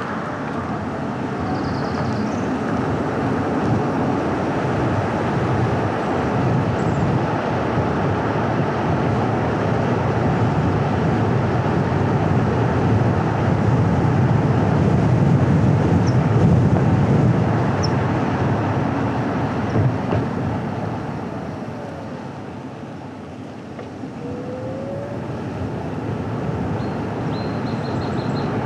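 A car driving on a paved road, with steady tyre and engine noise. It swells about halfway through and eases off for a couple of seconds before picking up again.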